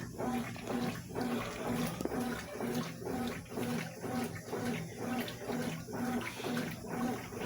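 Consul CWS 12 top-loading washing machine agitating a load, its motor humming in short pulses about twice a second as the agitator reverses, with water sloshing in the tub.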